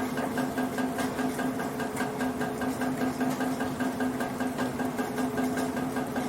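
Rainwater running and dripping through a metal gutter, giving a steady humming ring over a hiss, with a fast, even pulsing.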